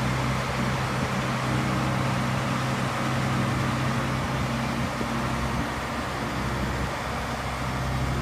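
Heavy vehicle's diesel engine running at a steady speed, a constant low hum.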